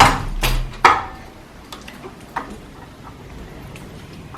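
Clicks and a sharp knock from a balcony door being opened, about a second in, followed by a few faint ticks.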